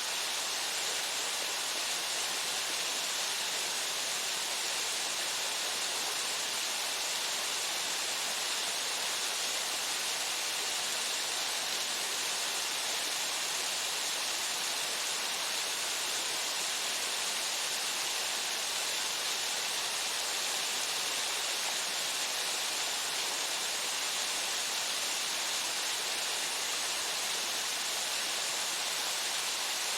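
Waterfall: water pouring steadily over the falls and splashing into the pool below, an even, unbroken hiss.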